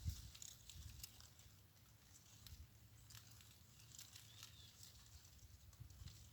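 Near silence with faint scattered ticks and light patter from small wild birds at a bathing pool, and one short high chirp about four and a half seconds in.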